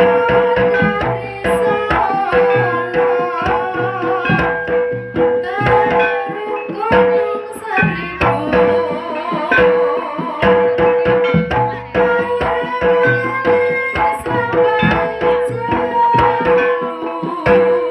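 Live jaranan gamelan music: kendang hand drums beating a busy rhythm under ringing metallophone tones and a wavering melody line.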